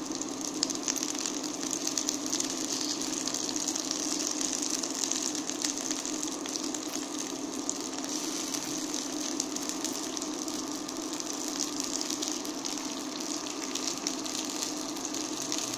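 Chicken wings sizzling in oil in a Silit frying pan, a steady frying hiss full of fine crackles and spits, over a steady low hum. The wings are browned on both sides and nearly done.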